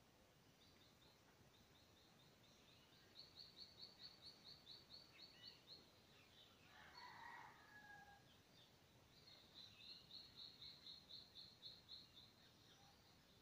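Birds at dawn: one bird repeats a rapid series of high notes, about six a second, in two long runs, and about seven seconds in a rooster crows faintly, lower and louder than the rest.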